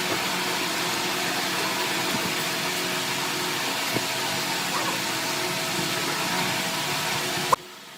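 An electric power tool's motor running steadily with a loud, even whir and hum, cutting off suddenly near the end.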